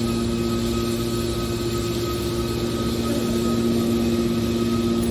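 Hydraulic metal baler's power unit running with a steady, unchanging hum.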